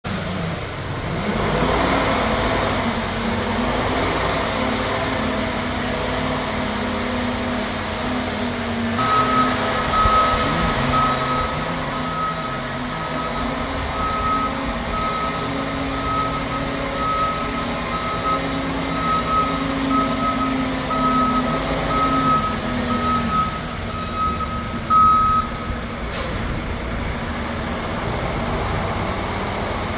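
Water truck's engine running, with its backup alarm beeping steadily about once a second while it reverses for some sixteen seconds from about nine seconds in. A single sharp burst follows shortly after the beeping stops.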